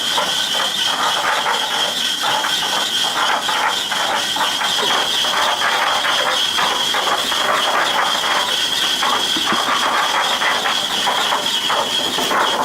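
Electric concrete mixer running after repair: a steady high-pitched motor whine over a dense clatter of gears and the turning drum.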